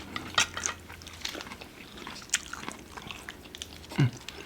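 Close-up eating sounds of a person biting and chewing a mouthful of sushi roll, with scattered wet mouth clicks and smacks.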